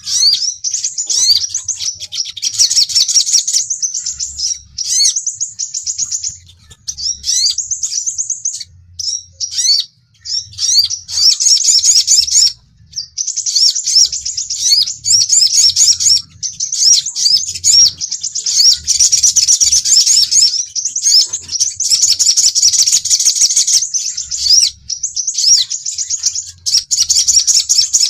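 Sunbird lure calls, sepah raja (crimson sunbird) and sogon: fast, high-pitched chirping and twittering with quick rising notes, in dense runs broken by short pauses.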